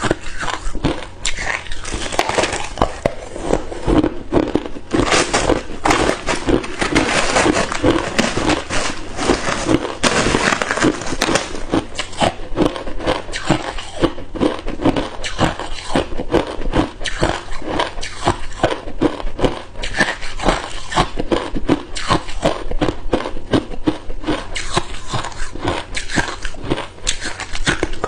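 Hard ice cubes being bitten and chewed close to the microphone: a dense, continuous run of sharp cracks and crunches.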